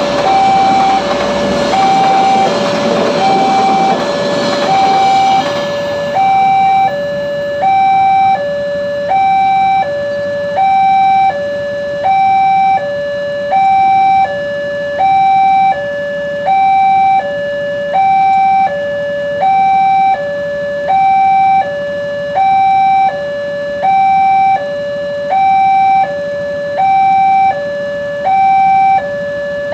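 Electronic railroad level-crossing warning alarm sounding two alternating tones, switching about every three-quarters of a second. Over it, the broad rumble of a passing train fades out about six seconds in.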